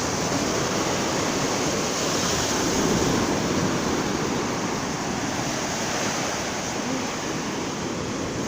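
Ocean waves washing onto the beach, a steady surf with a slow swell and fade, mixed with wind buffeting the microphone.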